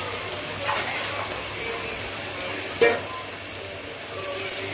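Chopped onion and potato frying in hot oil in a kadai: a steady sizzle, with one sharp knock nearly three seconds in.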